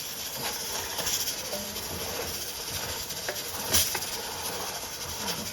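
Chicken and onion sizzling as they sauté in a pan, a steady hiss with a few light clicks, the sharpest about two-thirds of the way through.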